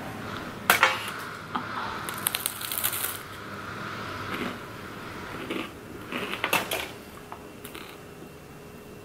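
Close-up crunching and chewing of pizza topped with Flamin' Hot Cheetos. A sharp crunch comes about a second in, then bursts of crackly crunching around two to three seconds and again around six seconds.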